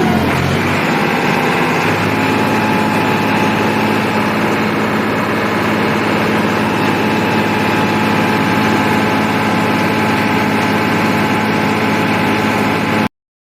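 Diesel tractor engine running at a steady speed, cutting off abruptly just before the end.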